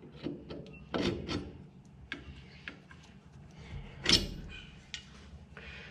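Metal workshop parts handled and tried together for fit: scattered light clicks and scrapes, with one sharper knock about four seconds in, over a faint steady low hum.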